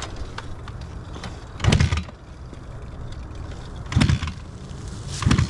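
Honda CRF150R's single-cylinder four-stroke engine being kicked over three times, each kick a short, loud burst about a second and a half to two seconds apart, over a steady low hum.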